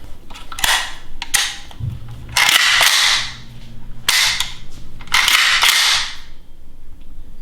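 Rifle firing single shots, four in all, spaced a second or two apart, each with a sharp crack and a ringing tail.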